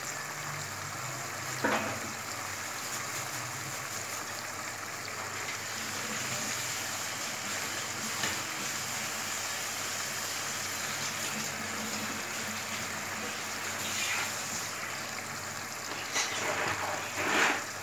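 Spiced onion masala bubbling and sizzling in oil in a pan as it fries down, a steady bubbling hiss with a few brief louder spurts, most of them near the end.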